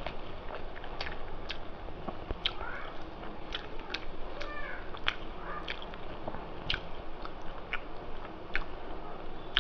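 Close-miked eating sounds of a person chewing a mouthful of rice and mutton curry, with frequent short wet lip smacks and mouth clicks.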